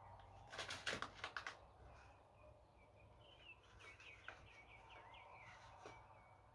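A few faint sharp clicks and taps in quick succession, then a bird chirping a rapid run of short notes.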